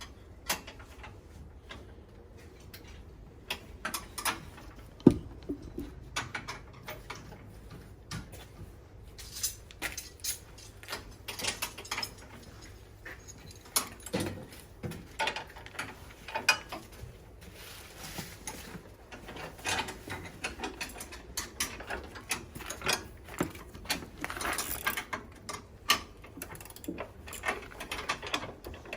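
Irregular clicks and metal knocks from tools and parts being handled while a new snow blower is assembled, with one loud knock about five seconds in.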